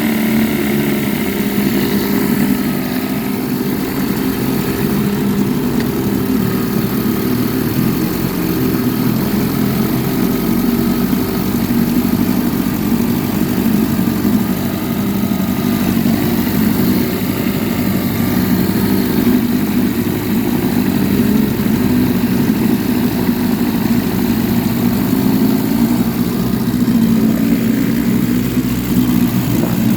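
1953 Scott-Atwater Gold Pennant 7-1/2 hp two-stroke outboard motor running steadily at an even speed.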